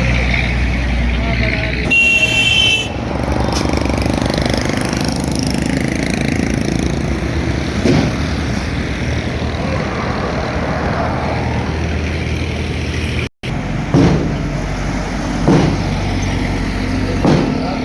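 Busy road traffic: engines of passing trucks, buses, cars and motorcycles running steadily, with a short high horn blast about two seconds in. The sound cuts out for an instant past the middle, and a few knocks follow near the end.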